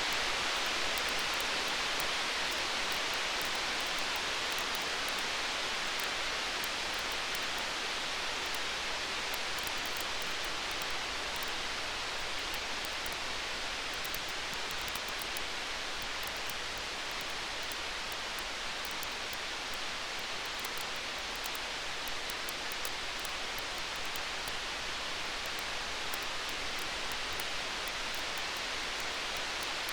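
Stormy-night ambience: a steady rain-like hiss with faint, fine campfire crackles ticking through it. No thunder in this stretch.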